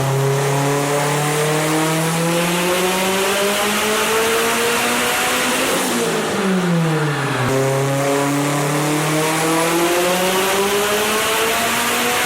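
Turbocharged car engine doing a full-load pull on a chassis dyno, its pitch climbing slowly and steadily. About six seconds in the revs fall away, then a second slow climb begins.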